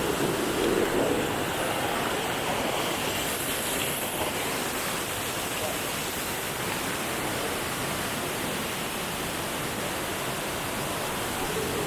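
Waterfall's falling water rushing steadily, an even noise that holds without change.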